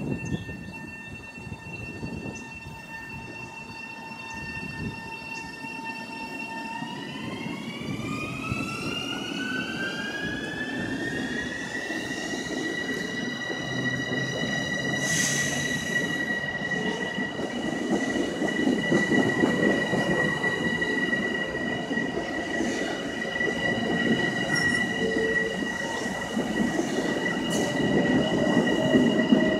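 Electric train with a steady electric motor whine that rises in pitch about a quarter of the way in and then holds at the higher note, over wheel and rail rumble that grows louder. A brief sharp hiss comes about halfway through.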